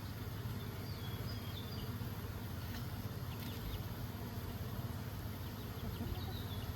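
Honeybee colony buzzing steadily at the hive, with bees bearding on the front of the box to keep the hive cool. A few faint, short high chirps sound over it about a second in and again near the end.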